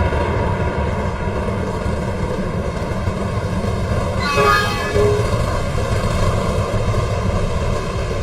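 Train passing with a loud, steady low rumble, and a short horn blast about four and a half seconds in.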